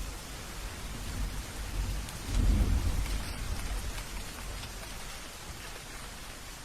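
Steady rain with scattered drop ticks, and a low roll of thunder that swells a little over two seconds in and fades away over the next couple of seconds.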